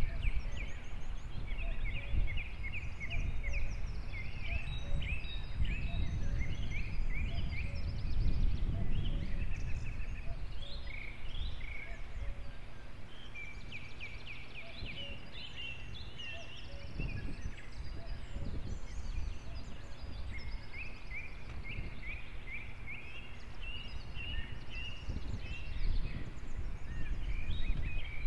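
Birds calling in rapid chattering runs of short high notes, again and again, over a steady low rumble. The uploader attributes the calls to ravens.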